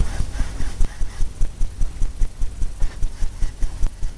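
A 2-inch paint brush loaded with oil paint scrubbing back and forth across a stretched canvas, about four strokes a second, laying in the ocean colour.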